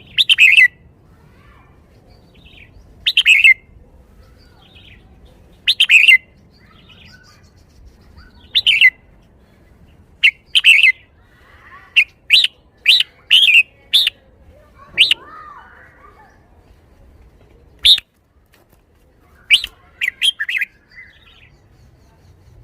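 Red-whiskered bulbul singing short, loud, clear phrases, each well under a second long. They come every two to three seconds at first, then in quicker runs in the middle and near the end. This is the song style Thai keepers call 'bottle-shaking'.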